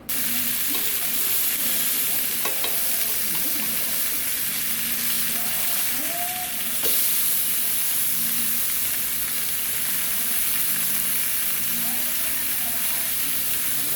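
Meat sizzling steadily on a hot grill, a dense frying hiss that gets slightly louder about halfway through.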